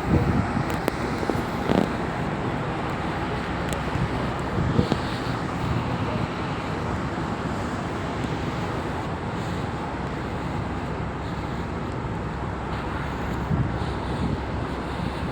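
Steady mechanical rumble with wind noise on the microphone, broken by a few brief low knocks.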